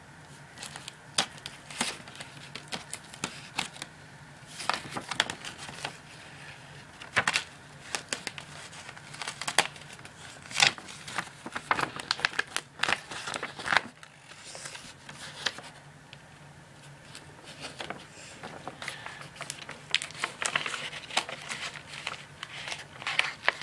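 Paper crinkling and rustling as it is folded and handled, in irregular short crackles with a quieter stretch about two-thirds through.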